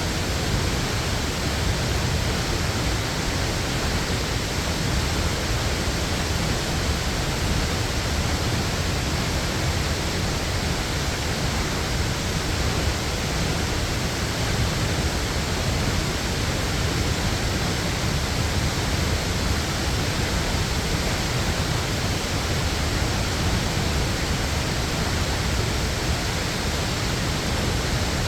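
Waterfall crashing down in a steady, unbroken rush, heavy in the low end.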